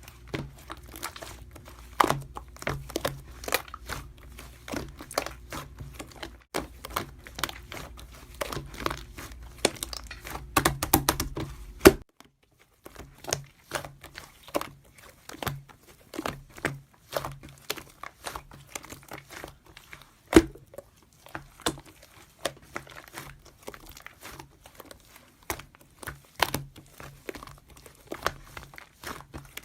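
Dense, irregular clicks and crinkling over a low hum; the hum cuts out about twelve seconds in and returns about a second later.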